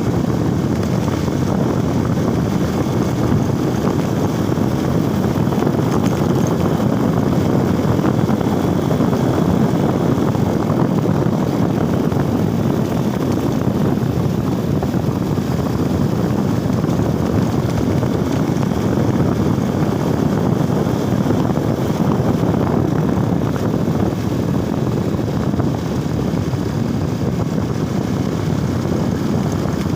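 Motorcycle riding at a steady pace: constant wind rush over the microphone mixed with the engine and road noise, with no breaks or changes.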